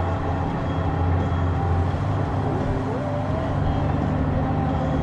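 Honda Gold Wing's flat-six engine running under way, with wind and road noise. The engine note shifts about three seconds in.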